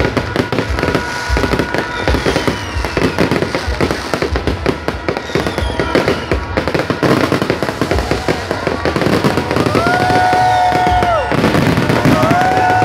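Fireworks crackling and popping rapidly and loudly, with a few falling whistles. Near the end two long held horn-like tones sound over the crackle.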